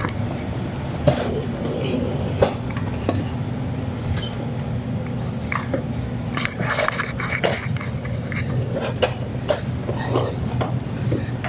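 Scattered metallic clicks and taps of hand tools and parts being handled under a car, busiest about six to nine seconds in, over a steady low hum.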